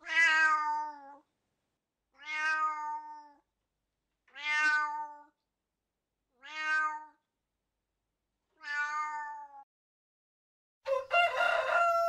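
Tabby cat meowing five times, about every two seconds, each meow lasting about a second. Near the end a rooster starts to crow.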